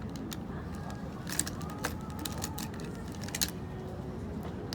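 Café ambience: a steady background of customers' chatter with scattered clicks and clinks of cups and dishes, the sharpest about one and a half seconds in and again near three and a half seconds.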